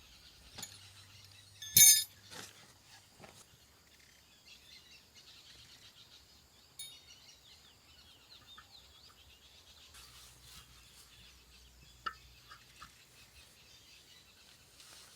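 Forest ambience with faint birdsong, broken about two seconds in by one loud, sharp, ringing clink or knock, followed by a few lighter knocks and clicks.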